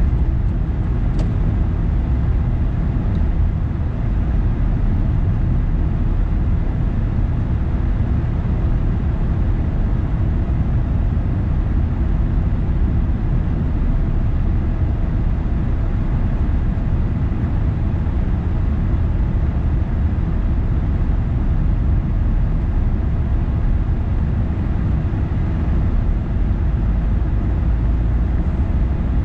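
Car driving steadily on city roads: an even low rumble of engine and tyre noise.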